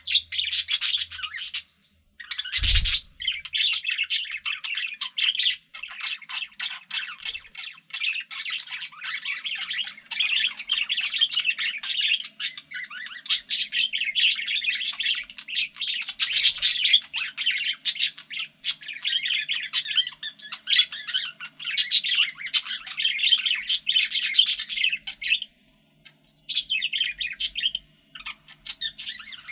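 Pet budgerigars chattering and warbling without pause, a dense run of rapid high chirps. A single sharp knock comes about three seconds in, and the chatter briefly drops out near the end.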